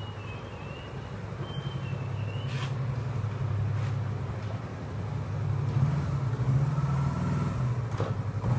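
Heavy motorcycle engine running with a steady low hum that grows louder about halfway through.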